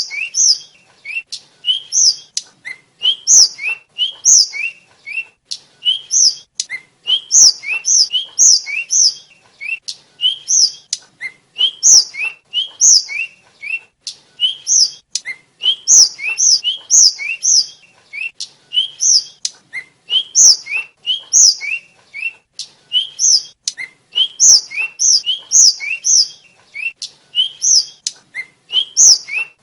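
A tledekan (sulingan, a small flycatcher) singing a long run of short, high chirping notes in quick groups of two to four, one group after another with only brief gaps.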